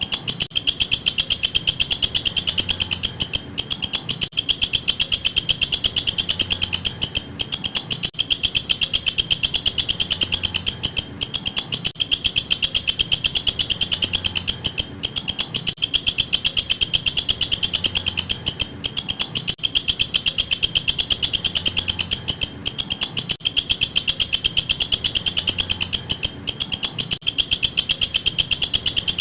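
Walang kecek, an Indonesian bush cricket, stridulating in a loud, high-pitched, very fast trill of chirps, broken by short pauses every few seconds.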